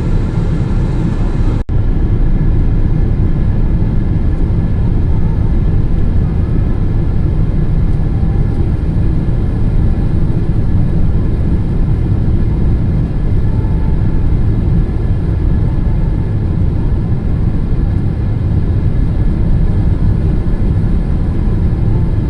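Steady in-flight cabin noise of a Boeing 777-200ER on final approach, a loud even rumble strongest in the low end, with a momentary break about two seconds in.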